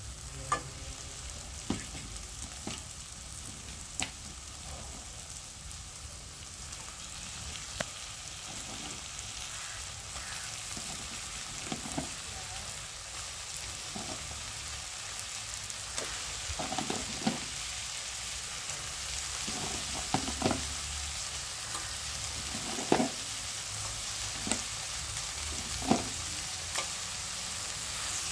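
Onion-tomato masala sizzling in an oiled kadai as raw crab pieces are added, with sharp knocks now and then as the shells land against the pan. The sizzle grows louder as the pan fills.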